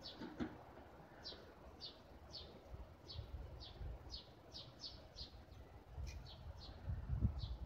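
A small bird chirping over and over in short, falling chirps, about two a second, over a low rumble that grows louder near the end.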